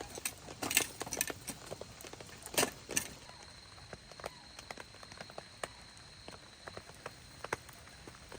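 Scattered raindrops pattering and dripping in irregular light ticks, with a few louder knocks in the first three seconds.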